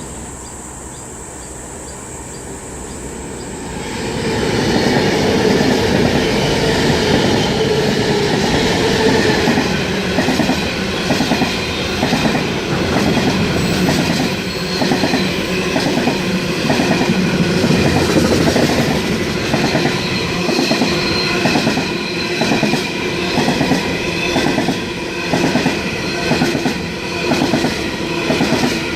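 Train passing through a station: the rumble builds about four seconds in, then the wheels click over the rail joints in a steady, repeating rhythm.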